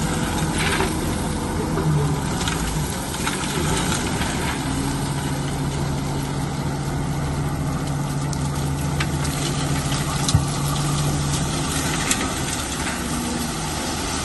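Bulldozer's diesel engine running steadily at a constant pitch, with a few short knocks scattered through it, a sharper one about ten seconds in.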